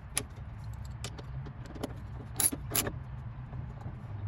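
Scattered light metallic clicks and clinks of hand tools and parts at the washer's drive pulley, with two louder clicks about two and a half seconds in, over a steady low hum.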